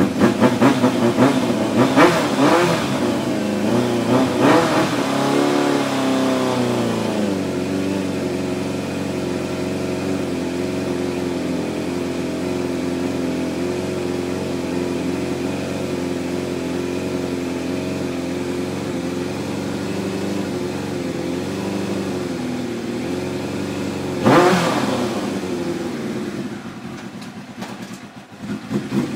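Kawasaki Ninja ZX-7R 750 inline-four engine just after its first start following a carburettor cleaning, blipped up in revs a couple of times, then settling to a steady idle. About 24 seconds in it is revved sharply once, and near the end the idle sags before picking back up.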